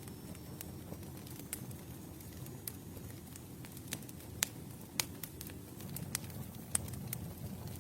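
Campfire burning: wood crackling with irregular sharp pops, a few louder than the rest, over a low steady rumble of the flames.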